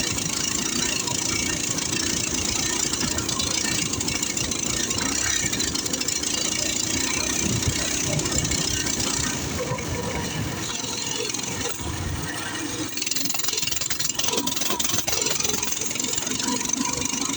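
Coleman CT200U-EX minibike's small single-cylinder four-stroke engine buzzing steadily at full throttle while riding through snow.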